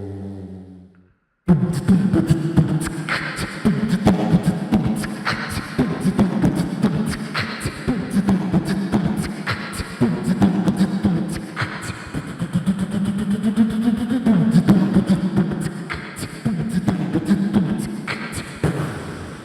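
Beatboxing: a fast, dense vocal drum rhythm of clicks and beats over a low pitched vocal line, starting abruptly after a moment of silence about one and a half seconds in.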